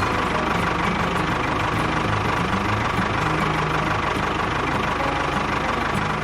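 A machine running steadily, engine-like, with a low, uneven rumble and a steady high whine.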